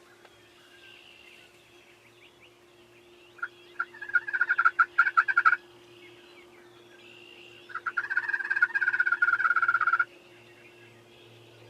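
Wild turkey gobbling loudly twice, each gobble a rapid rattling call lasting about two seconds.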